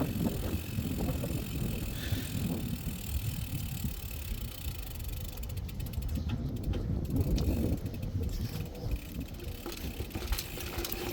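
Low rumbling and rattling of a bumpy ride over a rough path, with wind buffeting the phone's microphone.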